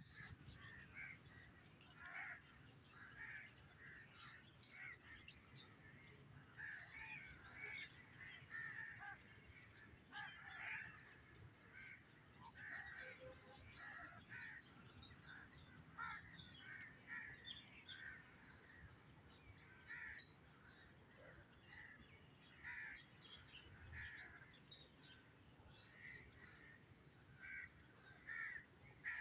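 Birds calling faintly and repeatedly: many short calls, one after another, with no break.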